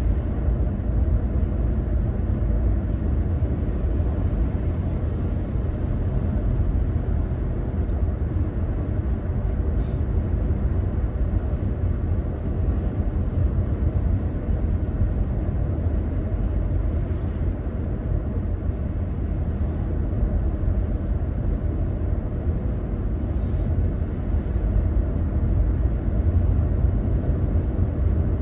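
A car driving along, with steady low road and engine rumble.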